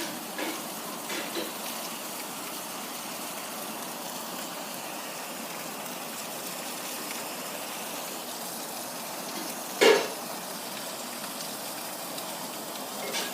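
Steady rain falling during a thunderstorm, a continuous hiss. A few light taps come near the start, and one sharp loud knock about ten seconds in.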